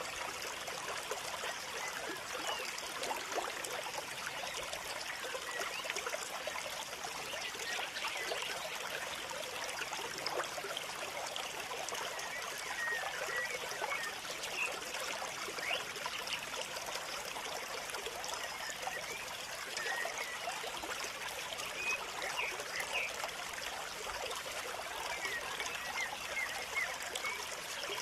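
Water trickling and babbling steadily, as of a small stream running over stones.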